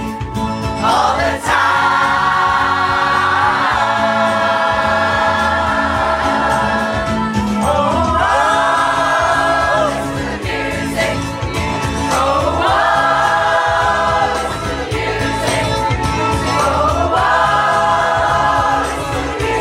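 A choir singing a pop song in long held phrases, over a backing track with a steady beat.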